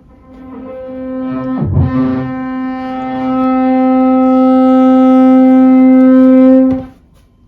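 A power tool from building work next door running with a steady, high droning whine that swells up over the first few seconds, wavers briefly about two seconds in, then cuts off suddenly near the end before starting up again.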